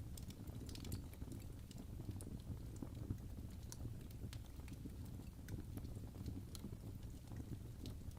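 Crackling wood fire: a steady low rumble of burning with irregular sharp pops and snaps scattered throughout.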